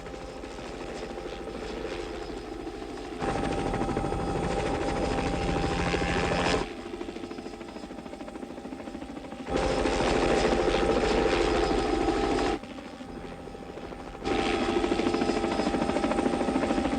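Helicopter in flight: fast rotor chop with a steady engine whine. The level switches abruptly between louder and quieter passages every few seconds.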